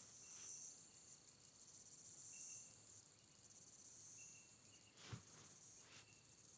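Faint insect chorus, crickets chirring high in long swelling pulses with short thin high chirps between, and a couple of soft clicks about five seconds in.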